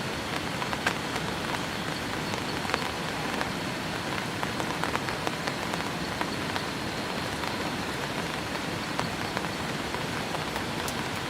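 Steady rain falling, with scattered sharper drop impacts ticking through the patter.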